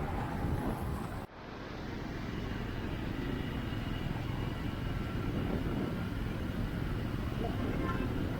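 Motorcycle riding noise: wind rushing and buffeting the microphone over the running engine. It cuts out abruptly about a second in, then swells back to a steady level.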